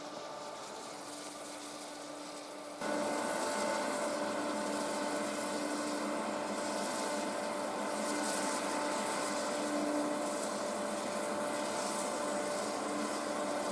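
Snow-making machines (snow cannons) running: a steady mechanical drone with a few held pitched tones. It gets noticeably louder about three seconds in.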